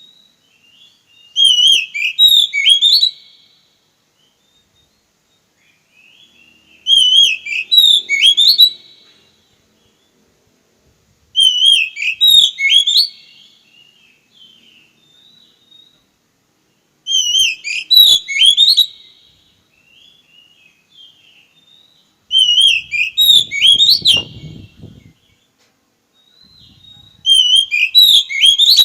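Oriental magpie-robin (kacer) singing one short, loud whistled phrase over and over, six times, about every five seconds.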